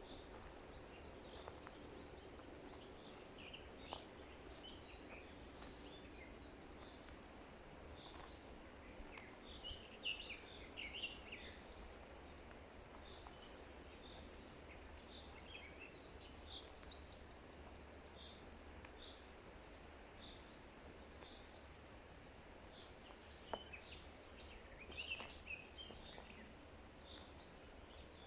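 Forest birds chirping over a faint steady background hiss, in clusters of quick calls about ten seconds in and again near the end.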